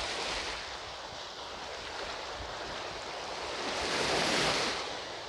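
Ocean surf: waves breaking and washing onto the beach as a steady rushing noise, with one wave swelling louder about four seconds in before falling away.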